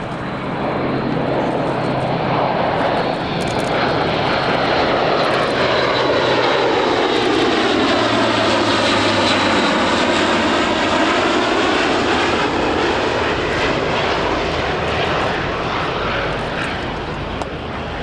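Airbus A400M Atlas C1 making a low flypast on its four TP400 turboprop engines. The sound swells, is loudest around the middle as the aircraft passes, and eases off near the end, with a whooshing tone that sweeps down and back up as it goes by.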